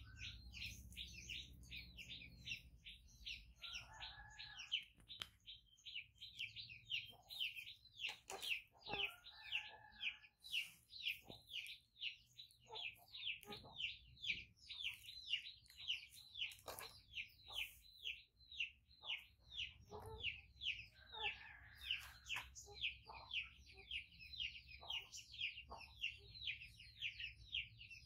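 A small bird chirping over and over, short falling chirps repeating about three times a second without a break.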